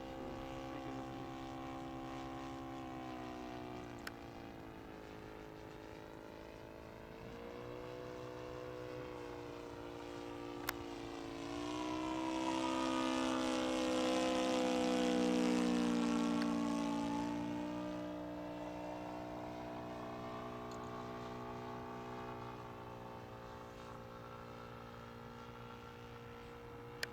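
Radio-controlled scale model Hawker Hurricane's engine running in flight, its pitch wandering as the model manoeuvres. About halfway through it grows louder and its pitch sweeps down as the model flies past close by.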